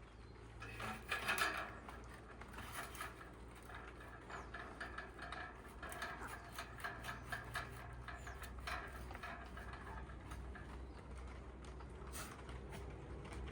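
A run of small clicks, knocks and rustles of camping gear being handled and set in place, loudest about a second in, over a steady low background hum.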